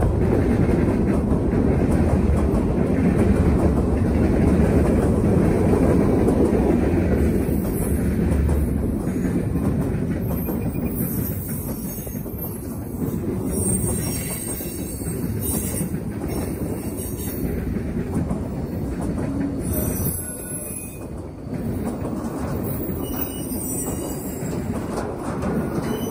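Freight train cars rolling past close by: a steady rumble of wheels on the rails that eases slightly after the first several seconds. From about ten seconds in, high wheel squeal comes and goes over the rumble.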